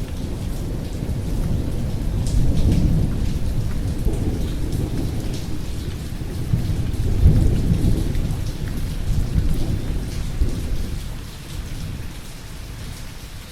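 Thunder rumbling over steady rain. The rolling rumble swells twice and dies away near the end, leaving the hiss of rain.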